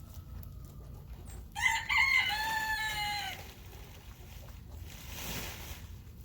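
A rooster crowing once, a call of nearly two seconds whose last note is held and falls slightly, over a steady low rumble.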